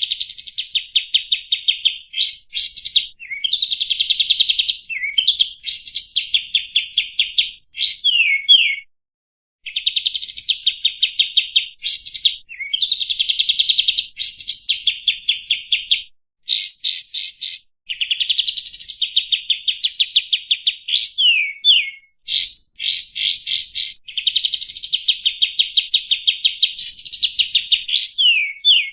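A kapas tembak songbird singing a loud, continuous chattering song: long fast trills of rapidly repeated high notes, broken by quick sweeping notes, in phrases of a few seconds with brief pauses between them.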